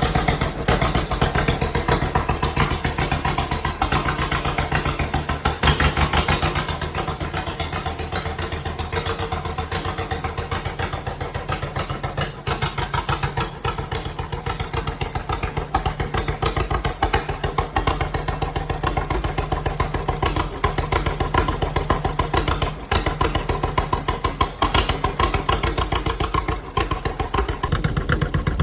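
John Deere tractor engine running steadily, its firing beats coming evenly and quickly, briefly louder about six seconds in.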